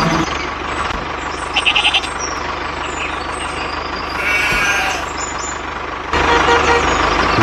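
A steady, engine-like drone runs throughout. About a second and a half in comes a quick run of five short beeps, and just past the middle a brief pitched tone. The sound gets louder about six seconds in.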